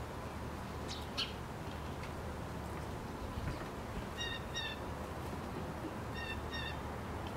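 A bird calling twice, about four and six seconds in. Each call is a pair of short clear-pitched notes in quick succession, over steady low background noise. A short sharp sound comes about a second in.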